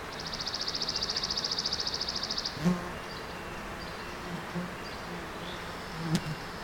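A small songbird's rapid, high-pitched trill, about sixteen even notes a second, lasting about two and a half seconds. A few short, soft sounds follow over a faint outdoor background.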